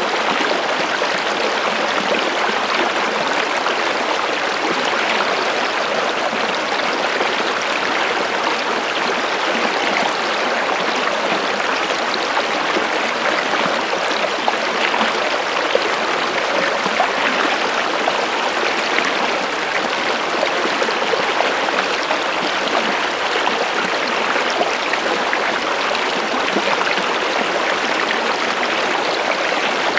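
Water flowing in a stream, with a steady babble and splash that stays even throughout.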